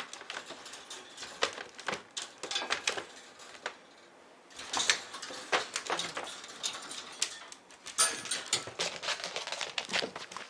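A miniature dachshund scratching and pawing at its enclosure, claws clicking and scraping in quick irregular bursts, with a short pause about four seconds in: the dog wants to be let out.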